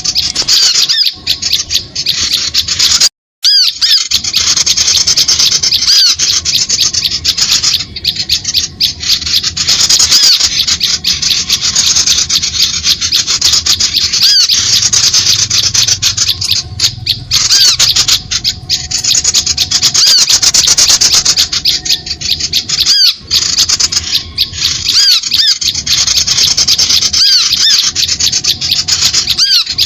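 Bird lure recording: loud, unbroken high-pitched chatter of many small birds' calls and chirps. It cuts out briefly about three seconds in.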